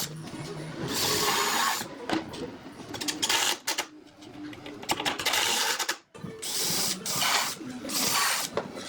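A small motorised tool running in short bursts of about a second, five or so times, with brief pauses in between.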